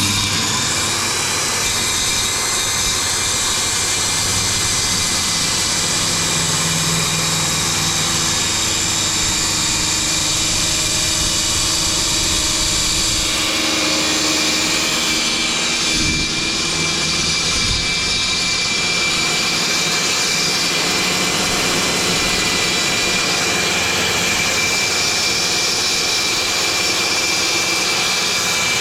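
High-speed electric power tool running continuously with a steady high whine.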